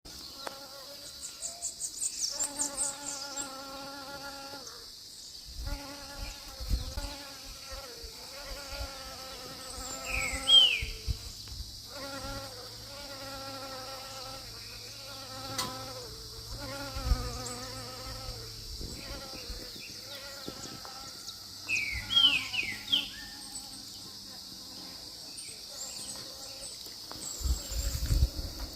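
A bee buzzing close by, its hum wavering in pitch and breaking off now and then as it moves about. A bird chirps briefly a few times over a steady high insect hiss.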